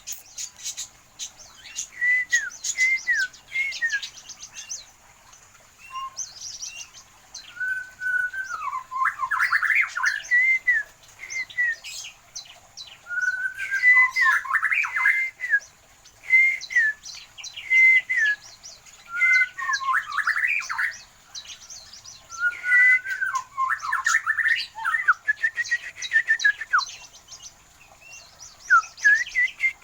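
Small aviary birds chirping and singing: short whistled phrases of falling notes that recur every few seconds, mixed with quick sharp chips.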